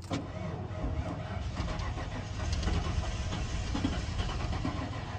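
1992 Ford F-150's 302 V8 being cranked by its starter, turning over without catching. The owner takes it that fuel has yet to get through the lines.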